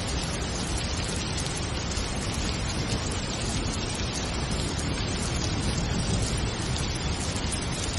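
Steady rain falling, an even hiss with no music or thunderclaps in it.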